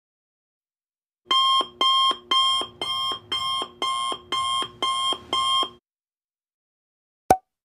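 Alarm clock ringing in nine short, evenly spaced pitched bursts, about two a second, followed by a single short click near the end.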